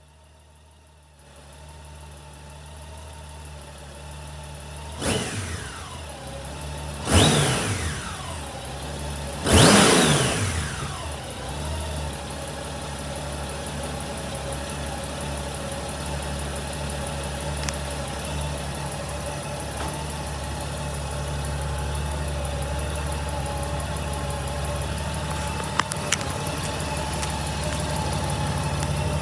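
Honda GL1800 Gold Wing's flat-six engine idling, blipped three times, each rev rising sharply and then falling back to a steady idle.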